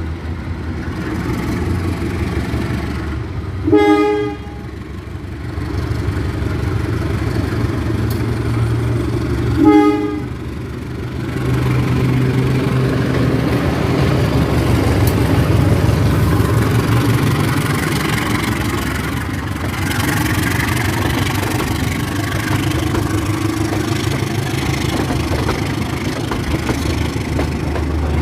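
Diesel engine of a CC 203 diesel-electric locomotive running with a steady low drone, with two short horn blasts about four and ten seconds in.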